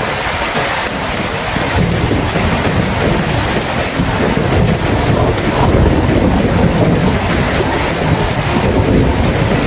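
Steady rain with a low rumble of thunder that builds about two seconds in and swells through the middle.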